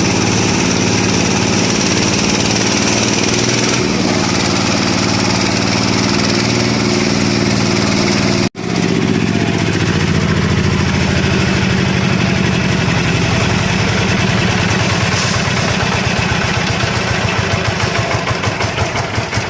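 Engine of an oil palm frond chopping machine running steadily. It cuts out for an instant about halfway through, then runs on. Near the end its beat slows and grows uneven as it drops toward idle.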